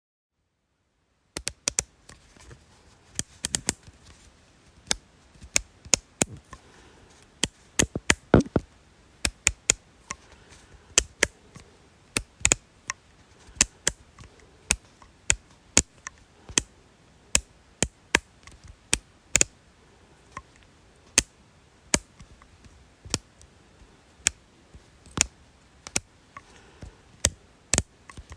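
Sharp, dry clicks repeated irregularly at about two a second, some in quick pairs, after about a second of dead silence at the start.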